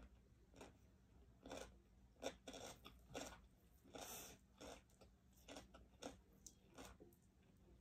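Faint eating sounds: chewing with irregular soft smacks and clicks, while a piece of grilled chicken is torn apart by hand, with a slightly longer rustle about four seconds in.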